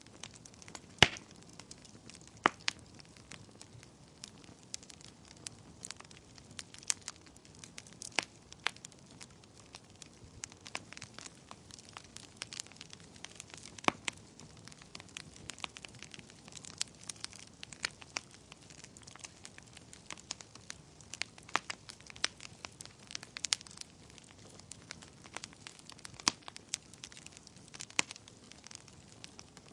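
Wood fire burning in a fireplace: irregular sharp pops and crackles, a few louder snaps among them, over a soft steady hiss of flame.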